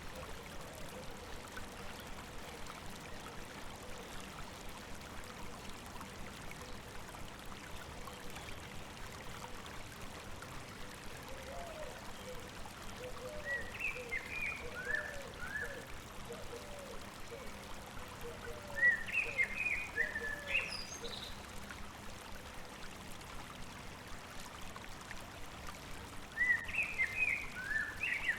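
A river running steadily over rocks, with birds singing short twittering phrases a few times, about halfway through, about two-thirds in and near the end.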